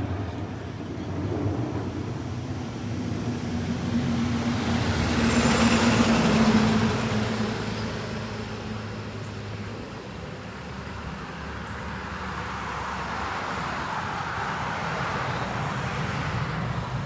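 A motor vehicle passing on the road, its engine hum and tyre noise swelling to a peak about six seconds in and then fading, followed by lower traffic and road noise.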